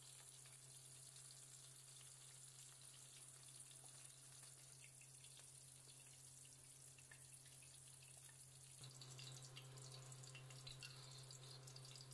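Faint sizzle and crackle of chapli kababs shallow-frying in hot oil, over a steady low hum. About nine seconds in, the sizzle and hum get louder.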